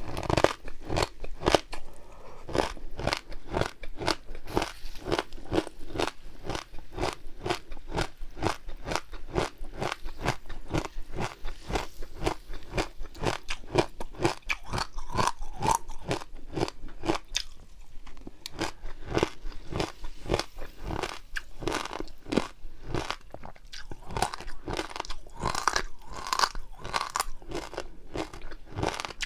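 Close-miked chewing of crunchy food: rapid, crisp crunches several times a second, with short pauses between mouthfuls.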